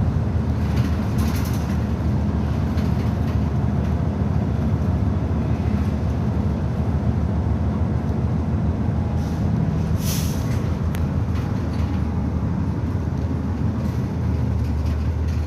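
Nagasaki Bus 2202 running, heard from inside the cabin: a steady low engine and road drone, with a brief hiss about a second in and again about ten seconds in.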